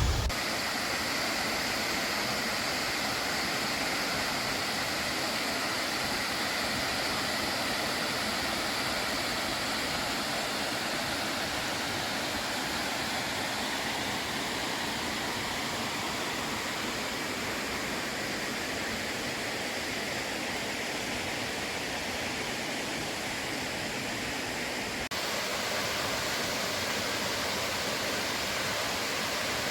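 Steady rushing of a waterfall, a continuous even roar of falling water that shifts slightly near the end.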